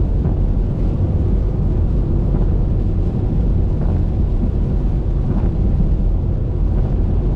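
Car driving along a wet highway: a loud, steady low rumble of tyre and wind noise, with a few faint brief taps over it.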